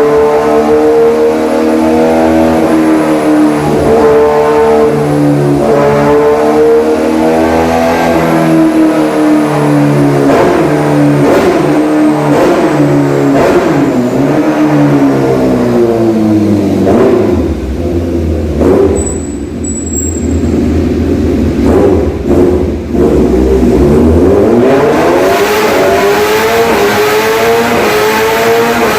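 Kawasaki ZX-6R inline-four engine running on a dyno through an Austin Racing aftermarket exhaust, revved up and down several times. Partway through the revs drop and the exhaust gives a series of sharp cracks, then the engine climbs steadily in pitch again near the end.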